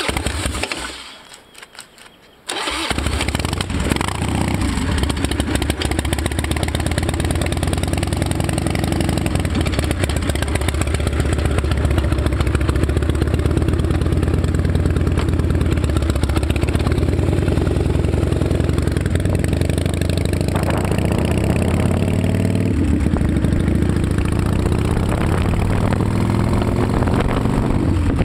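Harley-Davidson V-twin of a 1999 Night Train Softail, a new factory replacement motor, being started: the starter cranks briefly, and the engine fires about two and a half seconds in. It then runs steadily through new turn-out drag pipes whose baffles keep it a little quiet, its pitch shifting a few times near the end.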